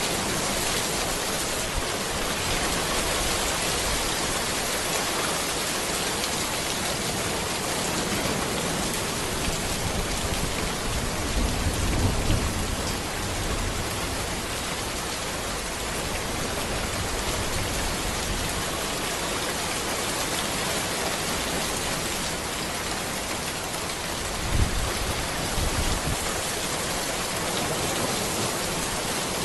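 Steady rain falling on a road, an even hiss of drops. A low rumble swells briefly about twelve seconds in, and another, with a sharper onset, comes near the end.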